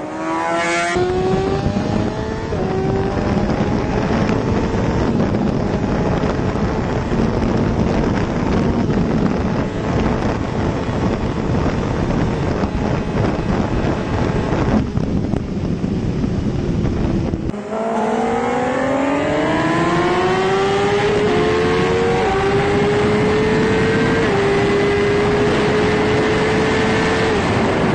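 Kawasaki Ninja H2 sport motorcycle accelerating hard at full throttle in a roll race, its engine pitch climbing over heavy wind rush. The throttle eases briefly about two-thirds of the way through, then the engine pulls again, with a quick upshift about every three seconds.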